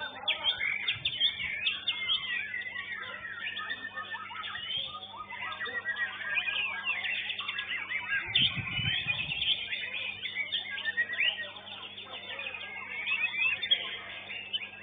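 Many songbirds singing at once, a dense chatter of quick overlapping chirps and whistles, over a steady low electrical hum.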